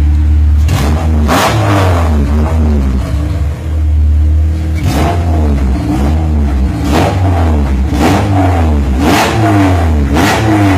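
Proton Satria GTi's naturally aspirated Mitsubishi 4G93 four-cylinder engine, fitted with a B16B intake manifold and cone air filter, idling and being revved in short throttle blips that rise and drop back to idle. Two blips come early, then a few seconds of idle, then a run of five about a second apart.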